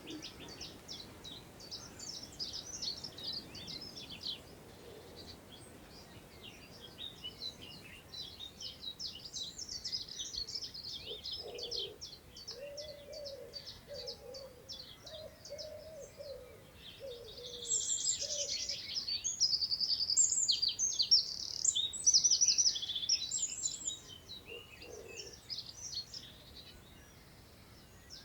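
Several small birds singing from the surrounding trees in quick phrases of rapid high notes. One song comes in louder for a few seconds about two-thirds of the way through. A lower call repeats several times in the middle, over a soft haze of wind in the grass.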